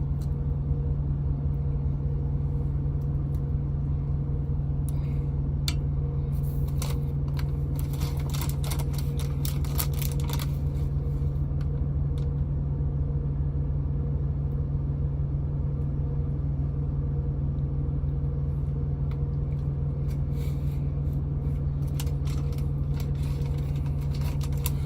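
Steady low hum of an idling truck engine heard from inside the cab, unchanging throughout. Light clicks and clatter come in two spells, about six to eleven seconds in and again near the end.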